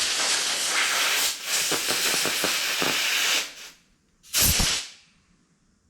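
Compressed-air blow gun blasting air through Stromberg carburettor parts to clear their tiny jet holes: a long hiss of about three and a half seconds with a brief break, then one short blast just after four seconds.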